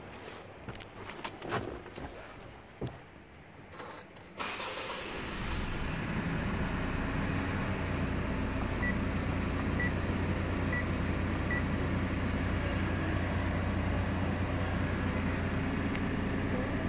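A few small clicks and knocks, then about four seconds in the Mitsubishi MQ Triton's engine starts and settles into a steady idle. Four short beeps from the dash sound about a second apart near the middle.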